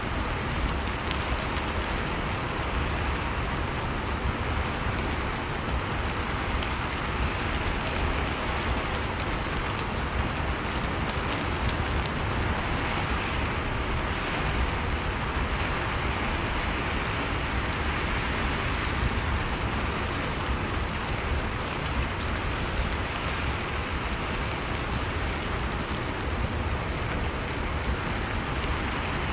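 Steady rain falling on a surface, an even, unbroken hiss with a low rumble beneath it.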